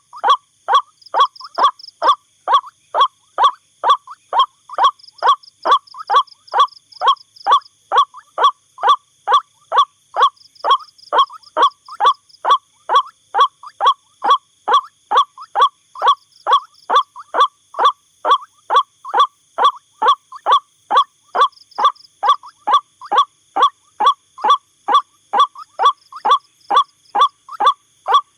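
White-breasted waterhen calling: a long, steady run of short calls evenly spaced at about two a second.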